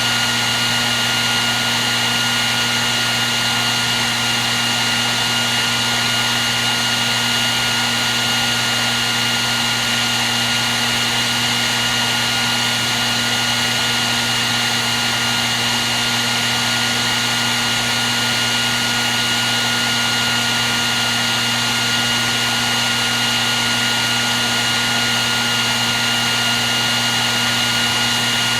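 Hair dryer running continuously: a steady blowing rush of air with a constant motor whine.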